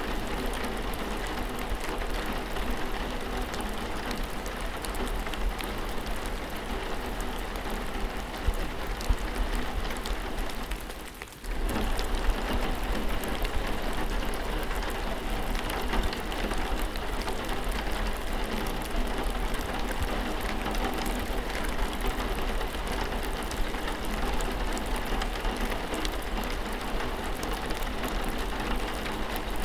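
Steady rain falling, a dense hiss of drops with scattered individual drop ticks and a low rumble underneath. It briefly dips out and comes straight back about eleven seconds in.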